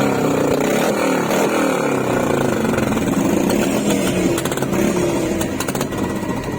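Motorcycle engine revving, its pitch falling away over the first couple of seconds and then rising and falling.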